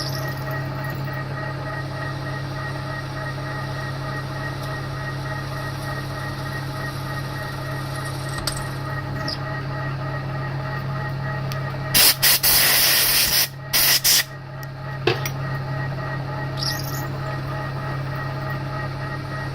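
TOS milling machine running steadily, its spindle turning a carbide drill through a hard snapped exhaust stud. About twelve seconds in, a loud hissing spray comes in a few short blasts over about two seconds, with one more brief puff soon after.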